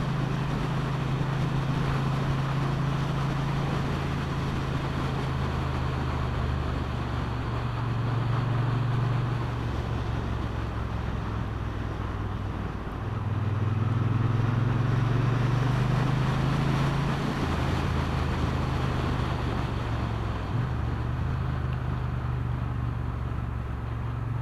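Motorcycle engine running while the bike is ridden along a country road, its note stepping up and down several times with throttle and gear changes. Wind and road noise run underneath.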